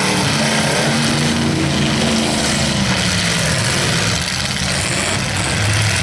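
Several demolition derby cars' engines running and revving together, the pitch rising and falling as the drivers accelerate and back off.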